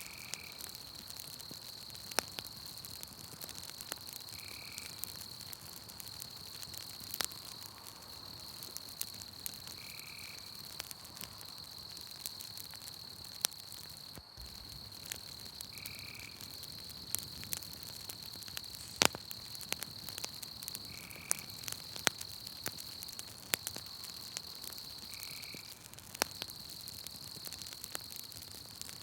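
Campfire crackling with scattered sharp pops, over a steady high insect trill. A short call sounds six times, about every five seconds.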